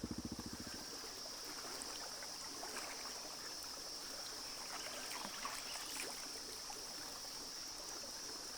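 Creek water trickling and running over rocks under a steady high drone of cicadas. In the first second the Suzuki DR-Z400E's single-cylinder engine chugs down and stops.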